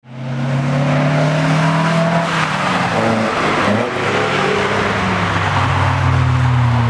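Toyota Corolla's engine pulling hard as the car drives past up a hill road. Its pitch sinks slowly over the first few seconds, dips briefly just before four seconds in, then climbs again.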